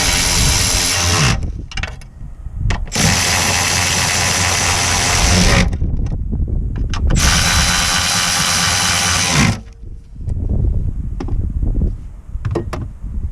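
A power tool run in three bursts of about two and a half seconds each, separated by short pauses. Scattered clicks and knocks fill the gaps and the end.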